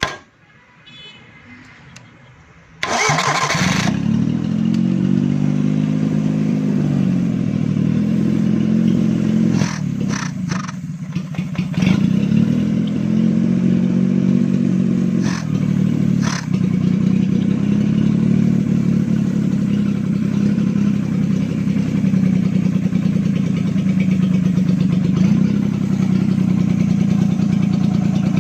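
Petrol car engine, run out of the car, starting on its starter motor: it catches suddenly about three seconds in and then keeps running, its speed rising and falling, with a few short clicks in the middle.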